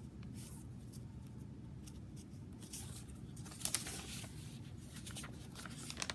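Paper pages and card of a handmade junk journal rustling and crinkling as they are handled and turned, with a couple of sharper crinkles a little over halfway through.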